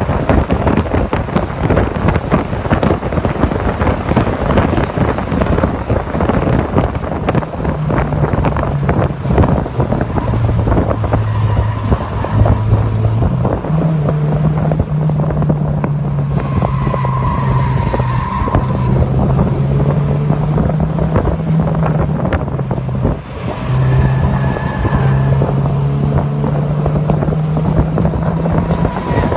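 Mazda MX-5 Miata (NC) engine running hard at speed, almost buried under heavy wind buffeting on the microphone. From about a quarter of the way in, the engine note can be picked out, holding for a few seconds at a time and then stepping up or down in pitch as the car speeds up and slows for corners.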